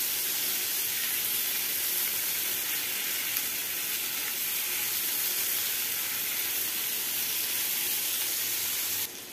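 Paneer cubes and spiced masala sizzling steadily in hot oil in a frying pan while being stirred with a silicone spatula. The sizzle cuts off just before the end.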